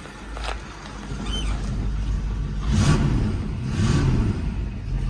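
1964½ Ford Mustang engine running after a cold start, with two short revs about three and four seconds in.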